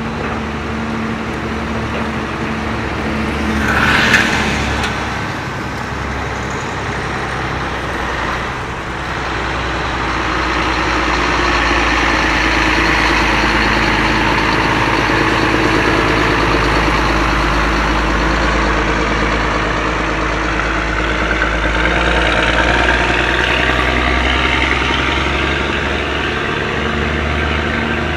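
Heavy truck engines running steadily, with a brief hiss about four seconds in. The engine and road noise grows louder from about ten seconds in as the trucks move.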